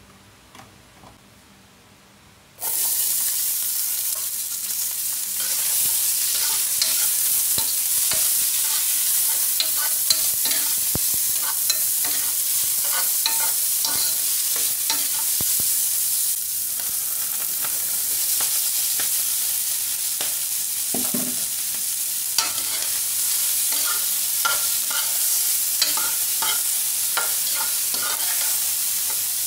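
Sliced onions and boiled chicken gizzards frying in hot oil in a metal kadai: a loud, steady sizzle that starts suddenly about three seconds in. A spatula stirring against the pan makes many short clicks and scrapes through it.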